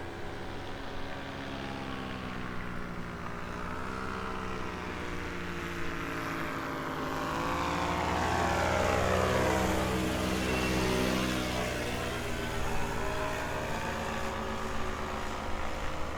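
A small propeller aircraft flying past. Its engine drone grows louder to a peak about halfway through, and the pitch shifts as it goes by.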